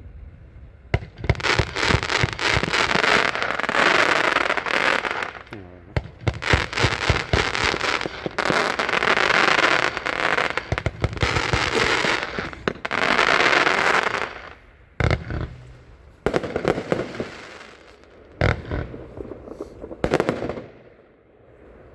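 A 46-shot consumer fireworks cake firing. Rapid shots and bursts start about a second in and come in dense volleys until about two-thirds of the way through, then thin to scattered separate bursts near the end.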